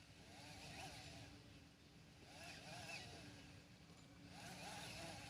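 Faint bird calls, a rising-and-falling call repeated three or four times, over a steady low hum.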